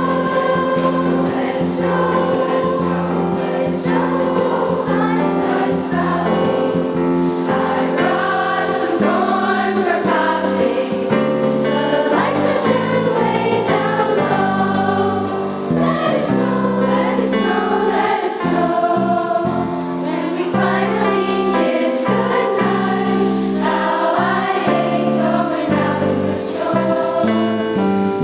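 School choir singing a holiday song with instrumental accompaniment.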